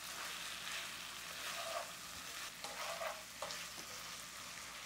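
Chicken pieces sizzling in garlic butter sauce in a nonstick frying pan as they are stirred: a steady crackling hiss with a few brief louder scrapes and splutters.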